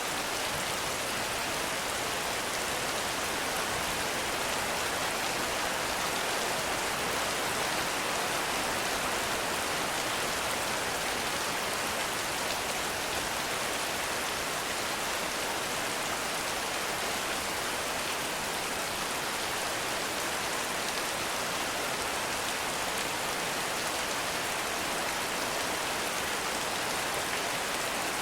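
Heavy rain falling steadily in a forest, a dense, even hiss that does not let up.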